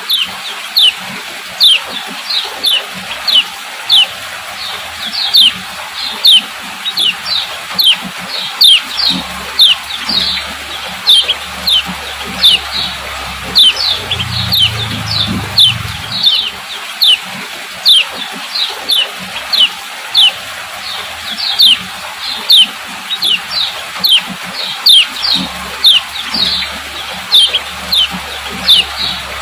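Female yellow kecial (kecial kuning) giving its 'ciak ciak' call: short, sharp, high chirps that slide downward, repeated about twice a second in a steady series.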